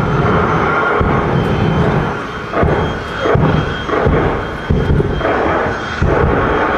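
A drag-racing car's engine running at high revs through a smoky burnout on the start line, the revs rising and dropping several times over a few seconds.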